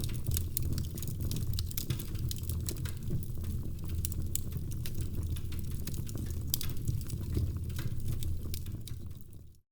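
Wood fire in a fireplace crackling, with frequent sharp pops and snaps over a low steady rumble of the flames. The sound fades and cuts out for a moment near the end, then comes back.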